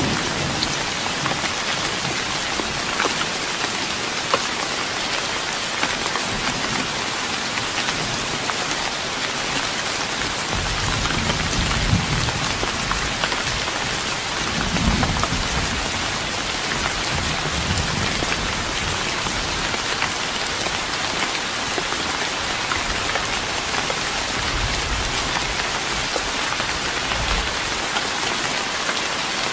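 Steady rain pattering on a wooden deck, a dense hiss of drops with fine individual ticks. From about ten seconds in, low rumbles swell and fade several times beneath it.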